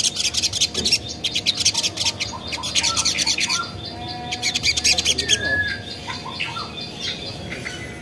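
Little spiderhunter giving rapid, high-pitched chattering trills in several bursts, then a few softer scattered chips and a short whistled note in the last couple of seconds.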